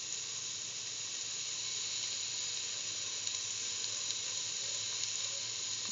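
Potato and bell pepper pieces sizzling in oil in a pan: a steady frying hiss with light crackles.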